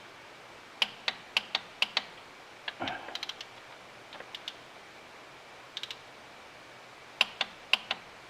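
Click-type torque wrench breaking over with sharp clicks as the 5.9 Cummins rocker arm bolts are torqued to 27, in quick runs of several clicks with short pauses of tool handling between.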